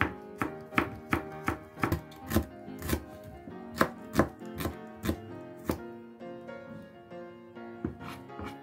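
Kitchen knife slicing shallots and garlic on a cutting board: sharp taps of the blade against the board, about two a second for the first six seconds, then only one or two more. Soft background music underneath.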